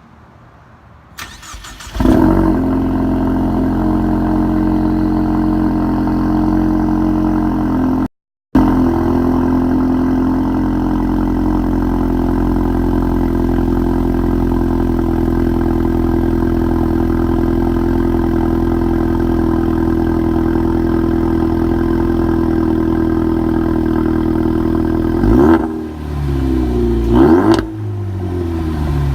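2015 Ford Mustang EcoBoost's turbocharged 2.3-litre four-cylinder, its mufflers and resonator replaced by a custom Y-pipe and 3-inch tips, cranking and catching on a cold start about two seconds in, then running at a steady idle with a deep tone. The sound cuts out briefly about eight seconds in. Near the end the engine is blipped twice, the revs falling back to idle after each.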